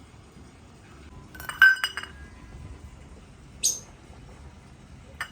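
A bowl being knocked and rattled by an African grey parrot, a quick cluster of clinks with a brief ring about a second and a half in and another single clink near the end. A short high squeak comes in the middle.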